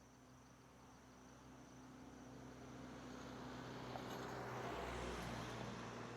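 A motor vehicle's noise swells steadily to a peak about five seconds in and then eases, over a steady low engine hum. Crickets chirp faintly at the start.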